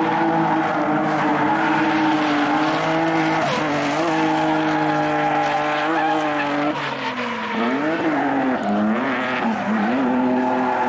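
Drift car engine held at high revs through a slide, with tyres skidding; about seven seconds in the revs drop and swing up and down several times before settling high again.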